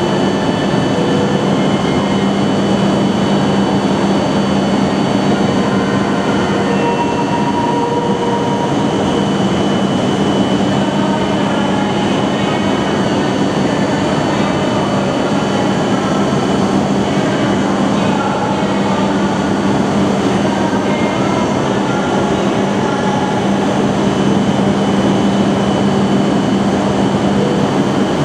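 A Shinkansen train at the station platform, running with a steady, even rumble and a steady low hum throughout.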